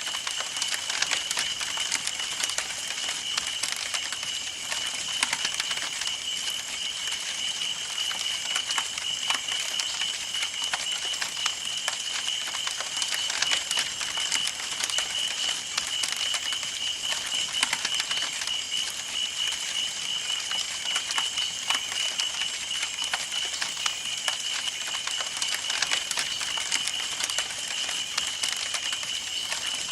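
Campfire burning with dense, irregular crackling and popping of wood, over a steady high tone and a soft hiss.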